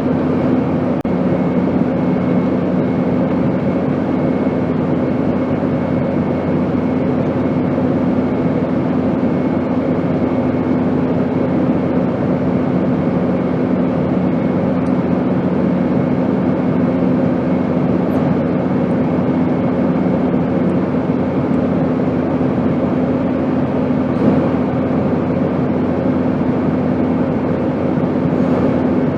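Airplane noise: a steady, unchanging drone of engine and rushing air, with a few held hum tones running through it.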